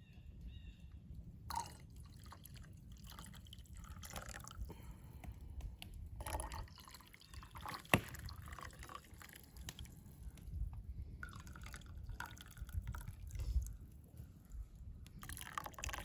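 Liquid pouring and dripping, with scattered small clinks and knocks, the sharpest about eight seconds in.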